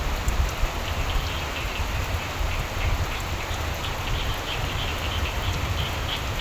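Steady rain falling, with frogs starting up a chorus of short, repeated croaking calls about a second in that grow more frequent toward the end.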